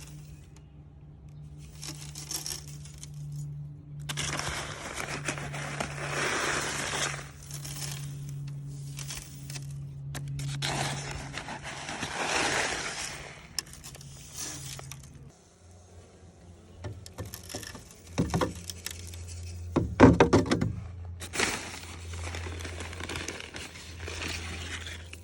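Powdered garden lime being shaken and poured out onto the ground in a series of pours, each lasting one to three seconds, with crinkling and scraping between them.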